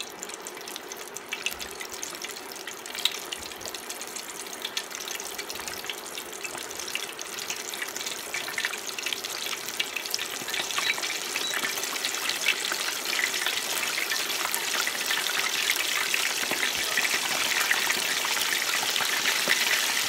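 Flour-dredged deer cube steak frying in oil at 375 degrees: a steady sizzle full of small crackles and pops that grows louder as it goes on.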